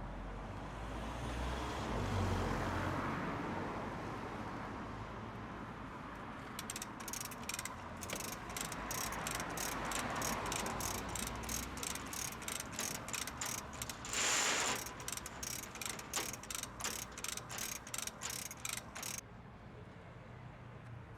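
Ratchet pawl of a hand-operated hoist clicking in a steady rhythm, about three clicks a second, starting about six seconds in and stopping shortly before the end, with one brief louder rattle midway. A low rumble comes before the clicking.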